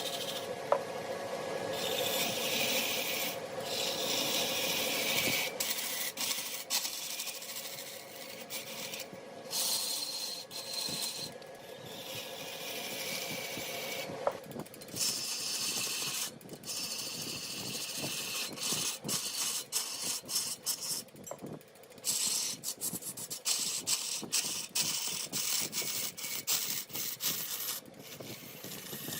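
A wood lathe turning a mahogany workpiece while a cutting tool scrapes against it. The scraping comes in stretches broken by short gaps, which come more often in the second half, over a faint steady hum in the first part.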